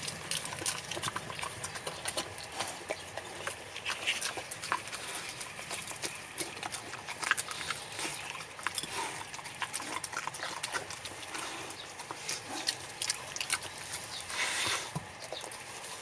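A pet eating roasted sweet potato: steady irregular wet chewing and smacking clicks, with a short sniff or snuffle near the end.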